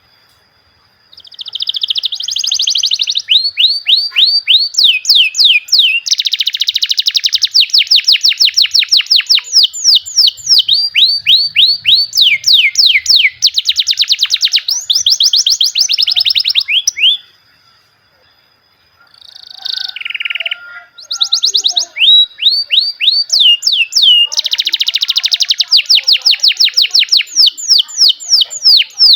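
Domestic canary singing: long, rapid trills of repeated down-sweeping notes. There is a pause of about a second and a half a little past the middle.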